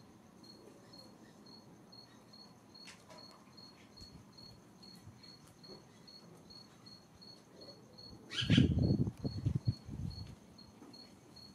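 An insect chirping steadily in a high, even pulse, about four chirps a second. About eight seconds in, a loud low rumble with knocks, like a gust or handling on the microphone, lasts about two seconds.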